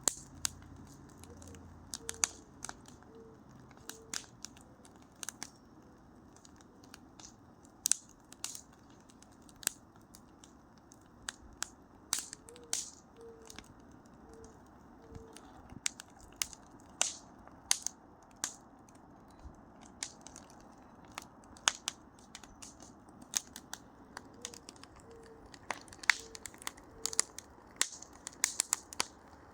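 Wood fire crackling slowly: irregular sharp pops and snaps, a few a second at most, over a soft steady hiss, with thicker clusters of pops near the end.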